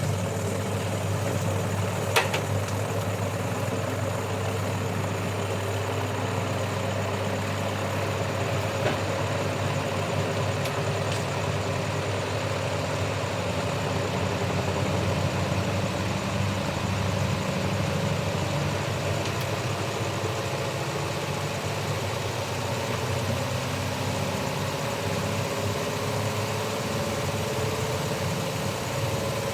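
Steady hum of a running motor, with a tone in it rising slowly and a sharp click about two seconds in.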